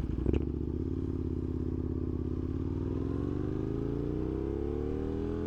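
Aprilia RSV1000 motorcycle engine running under way, its pitch steady at first and then climbing smoothly over the last few seconds as the revs rise under acceleration. A brief click sounds just after the start.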